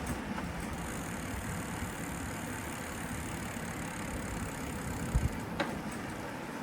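Street traffic: a motor vehicle's engine running close by, with a steady high hiss that stops about five seconds in, then a low thump and a sharp click near the end.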